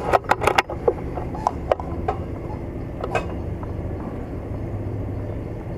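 Sharp mechanical clicks from an air rifle being handled and readied, bunched in the first second, then a few single clicks, over a steady low rumble.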